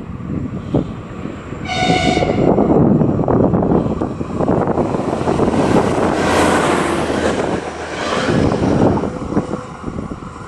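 Electric multiple unit passing through the station at speed: a short two-tone horn blast about two seconds in, then the rushing and clatter of the train going by close, loudest around six to seven seconds in.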